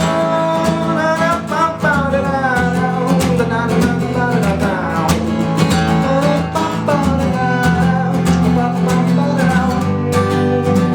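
Strummed acoustic guitar playing a song's instrumental passage at a steady level, with a gliding melody line above the chords.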